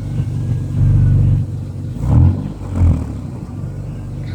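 Car engine revved through its exhaust over a steady idle: one longer rev about a second in, then two short blips about half a second apart.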